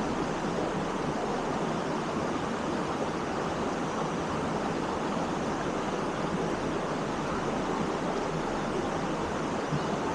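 Steady rush of falling water from a waterfall into its pool, an even, unbroken noise at a constant level.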